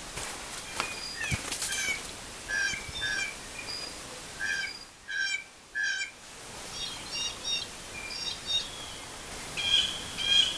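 Woodland birds calling in short, repeated notes, some in quick runs of two or three.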